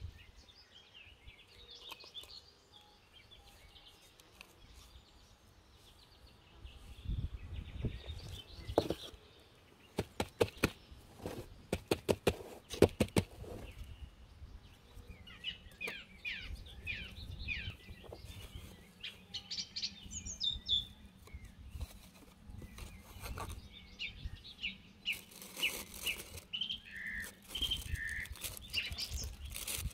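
Small songbirds chirping and singing. About a third of the way in comes a run of sharp clicks and knocks. Near the end a plastic bag crinkles as it is handled.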